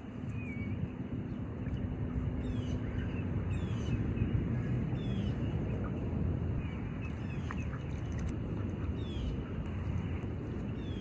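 Birdsong: a songbird repeating a short, high, downward chirp about once a second, from about two seconds in, over a steady low outdoor background.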